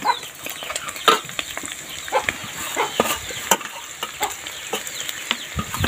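Snail-fry mixture frying in oil in an aluminium pan, a low sizzle with irregular crackles, pops and clinks as spices go in and the steel slotted spoon stirs.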